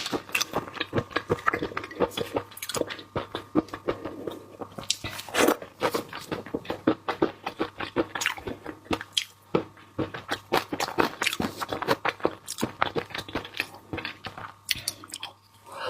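Close-miked chewing and biting of seafood: a dense, irregular run of crunches and short wet clicks from the mouth, with no pauses longer than a moment.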